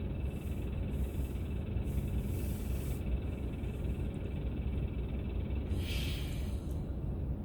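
Car driving on a road, with a steady low rumble of road and engine noise. A brief hiss comes about six seconds in.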